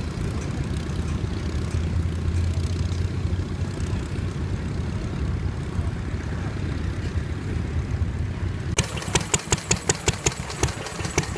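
Vintage tractor engine running with a steady low rumble. About nine seconds in, this gives way abruptly to a sharper, regular knocking engine beat at about five beats a second.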